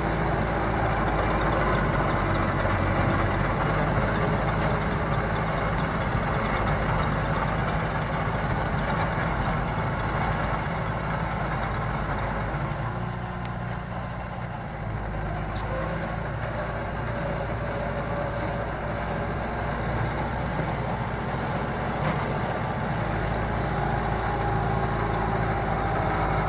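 Kubota 50 hp 4x4 tractor's diesel engine running steadily, easing a little quieter about halfway through before picking back up.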